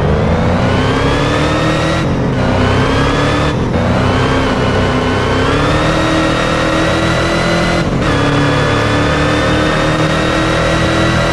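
Bugatti Veyron Grand Sport Vitesse's quad-turbo W16 engine accelerating hard. The pitch climbs over the first two seconds and keeps creeping up, with three brief breaks in the sound.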